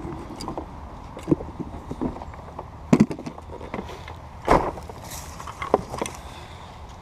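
Scattered knocks and thumps from handling and moving a folded kayak, four or five separate hits with the loudest about three and four and a half seconds in, over steady outdoor background noise.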